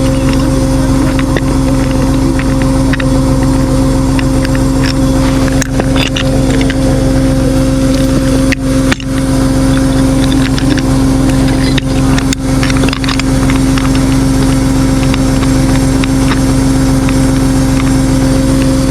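Tow truck's engine running at a steady speed while driving, a constant low drone with a brief dip in level about nine seconds in.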